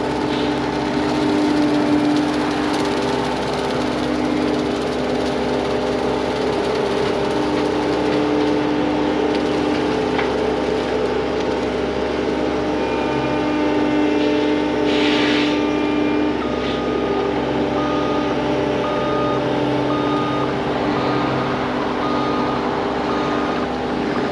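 CAT 259D compact track loader running with its MTL XC7T brush cutter attachment, a steady machine hum with a short burst of noise about two-thirds of the way in. A backup alarm beeps at an even pace through the last third.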